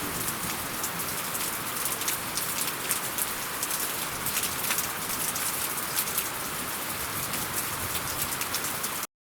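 Steady rain falling, a dense patter of many small drops over a constant hiss, until it cuts off suddenly near the end.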